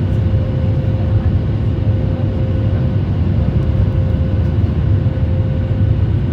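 Steady cabin noise of a Boeing 737 MAX 8 airliner: its CFM LEAP-1B engines and the airflow make an even rumble, with a steady mid-pitched tone held over it.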